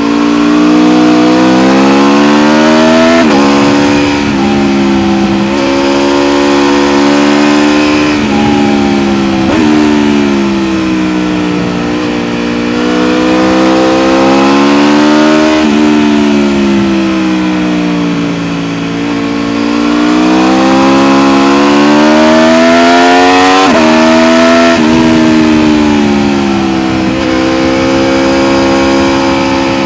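Aprilia RSV4 1100 Factory's V4 engine heard from on board the bike, accelerating hard with the pitch climbing and then dropping sharply at each quick upshift, several times over. In between it falls away more slowly as the rider rolls off and the engine brakes for bends.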